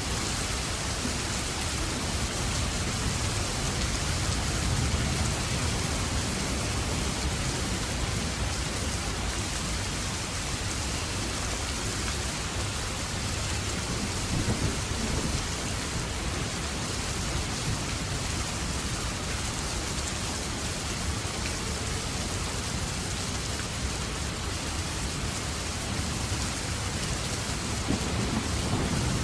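Steady rain falling hard, with low rumbles of thunder swelling up a few times, strongest near the end.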